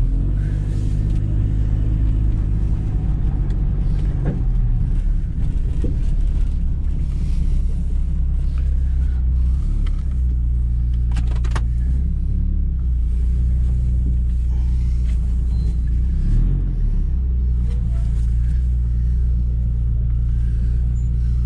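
Vehicle engine and exhaust heard from inside the cab while driving: a low, steady drone whose pitch shifts a few times as the revs change.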